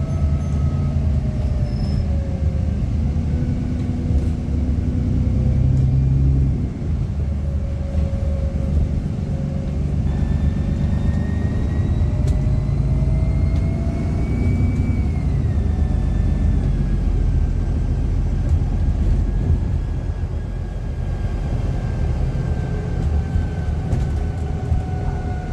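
Bus engine running as the bus drives, heard on board, with a thin whine that rises slowly, peaks and falls away with engine speed: engine noise fed back through the bus's speaker system.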